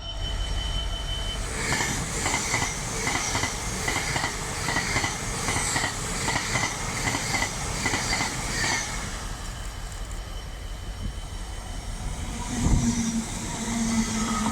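Train wheels clicking over rail joints in a steady rhythm, about two to three clicks a second, for several seconds before the clicking stops. Near the end there is a thump, and a steady low hum begins.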